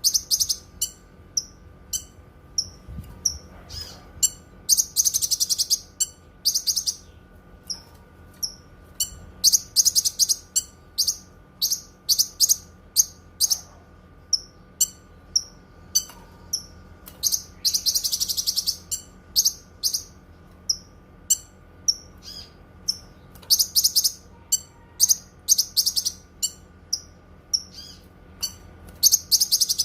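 Cucak kinoi singing: a string of short, high chirps broken by several bursts of rapid trilling notes.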